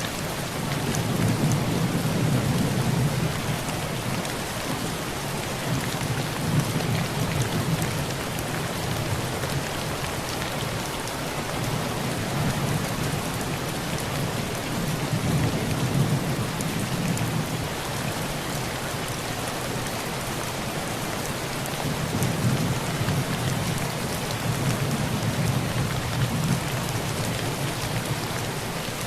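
Heavy rain pouring on a tin roof, a steady dense hiss, with low rolls of thunder swelling and fading several times.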